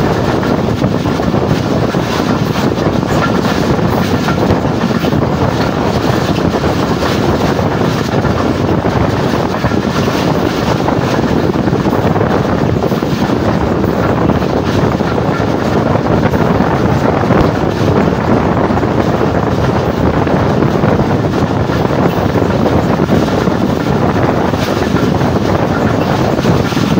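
Passenger train running at speed, heard from aboard a coach: a steady rumble of wheels on rail, with wind rushing over the microphone.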